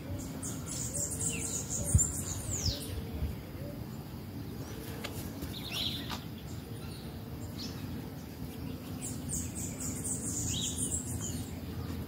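Wild birds chirping in three spells of quick, high calls: at the start, around the middle and near the end. A brief knock about two seconds in.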